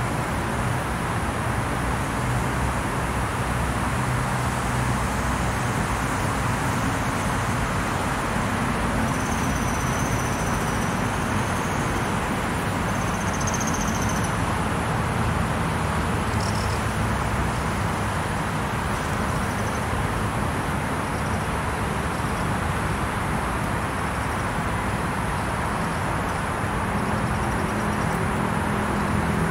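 Steady wash of road traffic noise with a low hum, and a few faint high chirps about a third of the way in.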